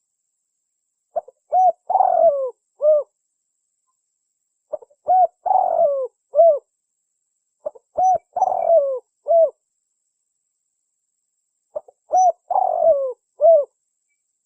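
Spotted dove cooing: four repeated phrases about every three and a half seconds, each a few short notes and one longer, falling, burry note.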